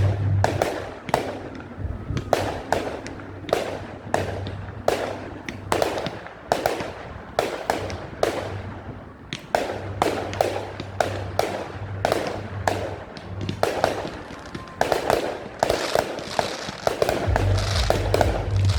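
Fireworks display: a fast, continuous series of bangs, about two a second, each trailing off in a short crackle, with music playing underneath.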